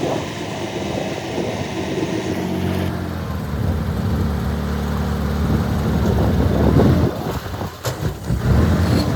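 Heavy diesel engine of earthmoving machinery running steadily, with a hiss over it that stops about three seconds in. The engine sound dips and breaks up briefly near the end.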